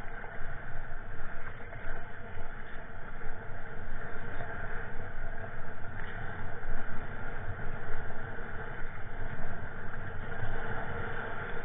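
Strong wind buffeting the microphone: a heavy rumbling noise that swells and dips with the gusts, over the wash of wind-driven waves.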